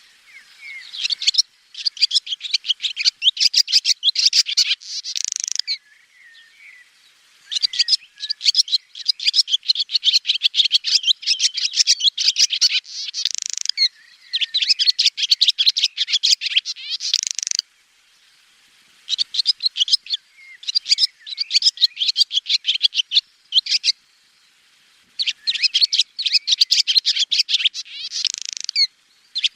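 Swallow twittering: rapid runs of high, bright chirps in bouts of several seconds, broken by short pauses.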